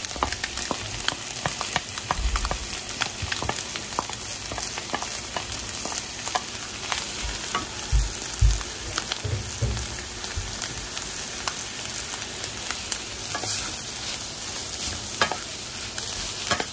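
Mixed vegetables and scrambled egg sizzling in a stainless steel wok while a wooden spatula stirs them, clicking and scraping against the pan, with a few dull knocks along the way.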